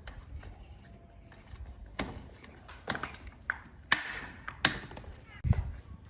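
Tools and parts being handled on a workbench: about five separate sharp clicks and knocks a second or so apart, the last one a heavier thump.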